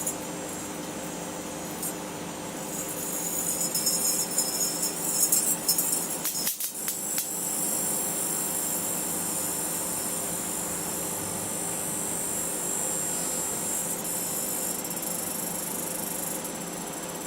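Microwave oven running with a steady hum while a sealed beam headlamp inside it arcs. From about three seconds in there is loud high crackling, ending in a few sharp cracks about six and a half seconds in, followed by a steady high buzz.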